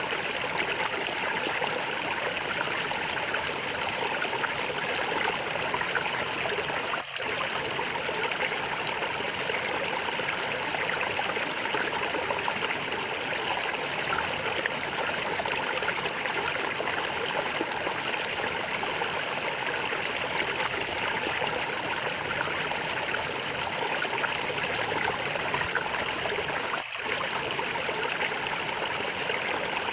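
Water gurgling and flowing steadily, like a small stream, with two very brief dips in level, about seven seconds in and near the end.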